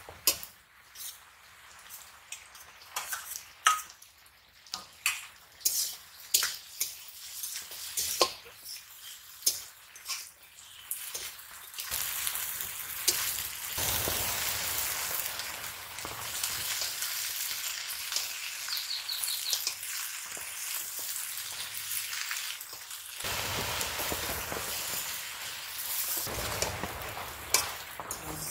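Food frying in hot oil in an aluminium karahi, stirred with a flat metal spatula. At first there are sharp knocks and scrapes of the spatula on the pan over a light sizzle. From about twelve seconds in there is a louder, steady sizzle as the red spinach (red amaranth) leaves fry.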